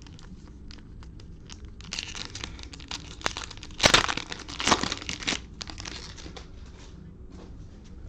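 Cellophane wrapper of a trading-card cello pack crinkling and being torn open, with two loud rips about four and five seconds in.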